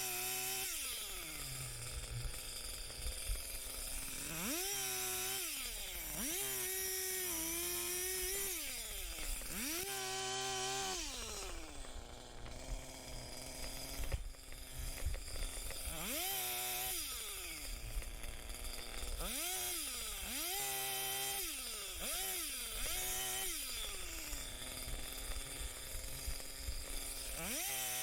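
Two-stroke chainsaw revving up again and again for cuts, each burst holding high for a second or two before dropping back to idle, about eight times.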